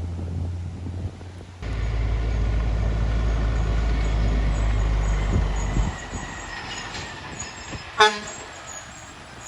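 Heavy truck engine running hard, a loud low drone for about four seconds that then drops away. Near the end comes one short, sharp horn toot.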